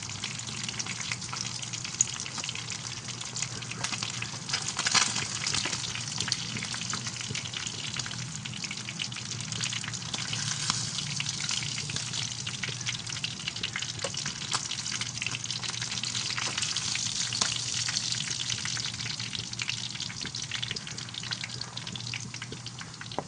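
Bangus (milkfish) frying in hot oil: a steady sizzle full of small crackles and pops. A low steady hum runs underneath.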